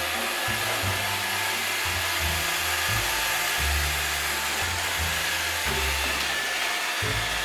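Roomba robot vacuum running with a steady whir, under background music with a bass line.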